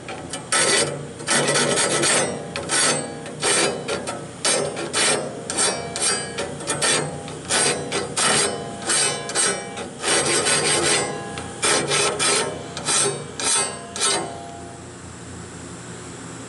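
Hand file rasping across the teeth of a sawmill band blade in quick repeated strokes, about two a second, sharpening the blade. The strokes stop about 14 seconds in, leaving only a faint steady background.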